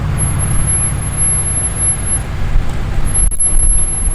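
Deep, pulsing low rumble of a performance car's exhaust at low revs as it rolls slowly in, with a thin high-pitched whine above it that drops out briefly past the middle.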